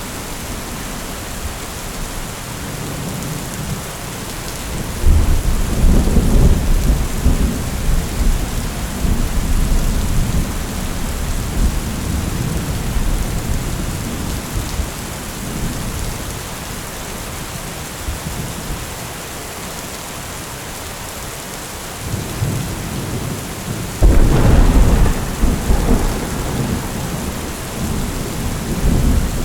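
Steady rain with two claps of thunder: one about five seconds in that rolls on for several seconds, and a second that breaks suddenly near the end and rumbles on.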